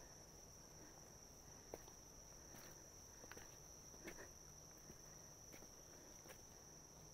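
Near silence on a forest trail: a faint steady high-pitched insect drone, with a few soft footsteps.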